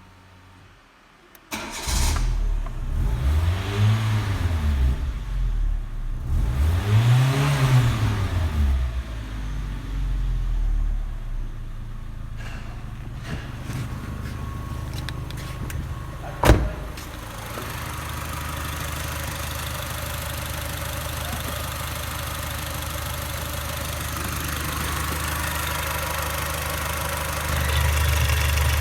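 Renault K7M 1.6-litre eight-valve petrol four-cylinder engine starting up about a second and a half in. It is revved twice, then settles into a steady idle. A single sharp knock sounds about halfway through, and the idle grows a little louder near the end.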